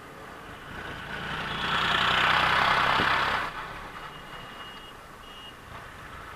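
A vehicle passing close by on the road: its engine and tyre noise swells for about two seconds, then falls away quickly about three and a half seconds in. Faint short, high beeping tones follow.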